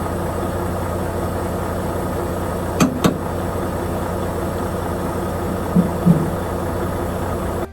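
Semi truck's diesel engine running steadily with a low hum. Two sharp clicks come about three seconds in, and two short low blips near the end.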